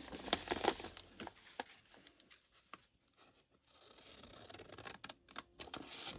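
Paper being handled in a craft project: irregular rustling and crinkling with small sharp clicks and taps, pausing briefly midway and resuming near the end.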